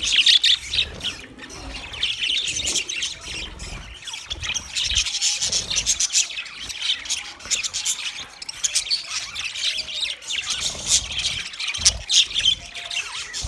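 Budgerigars chirping and chattering continuously, many quick overlapping high calls from a group of birds.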